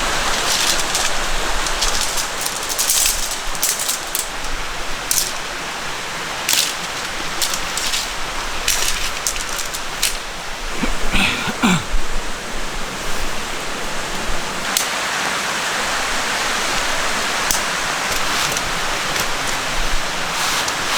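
A gentle valley stream running steadily, with scattered light clicks over it and one short sliding pitched sound a little past halfway.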